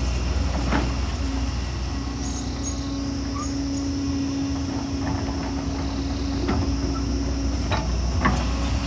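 Excavator's diesel engine running under load with a steady low rumble, and a steady droning tone for several seconds in the middle. A few sharp knocks of the machine working rock and soil, the loudest near the end.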